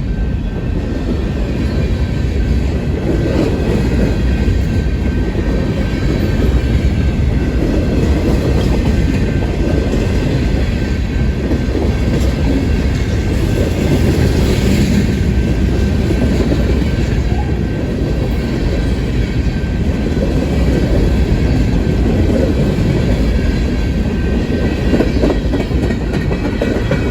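Freight train cars rolling steadily past, with a continuous rumble and the clatter of wheels over the rails, and faint high wheel squeal.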